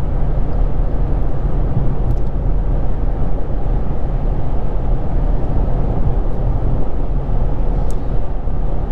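Infiniti G35 coupe's VQ35DE V6, fitted with a Z1 touring exhaust and two resonators, cruising at a steady speed: a constant low exhaust drone mixed with road noise, with no revving.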